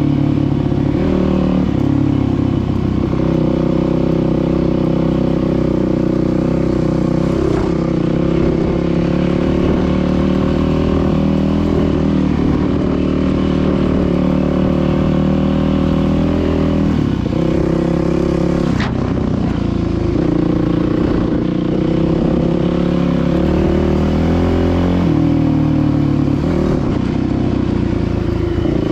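Dirt bike engine running hard while being ridden, its pitch falling and climbing again several times with gear shifts and throttle changes. There is one sharp click about nineteen seconds in.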